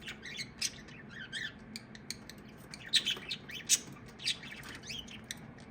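Pet birds making short, scattered squawks and chirps, loudest about three seconds in, over a faint steady hiss.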